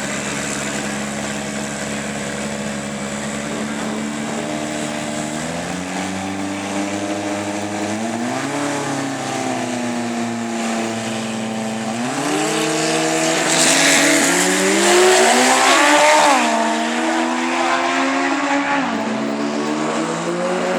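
Drag race car engines idling and revving, the pitch climbing and falling back several times, with a louder stretch of engine and hissing noise about two-thirds of the way in.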